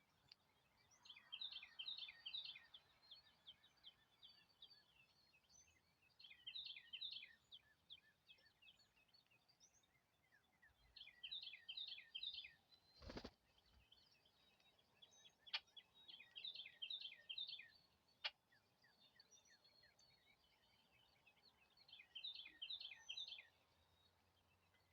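A songbird singing the same short phrase of quick falling notes five times, about every five seconds. There is a single sharp click a little past halfway and two faint ticks shortly after.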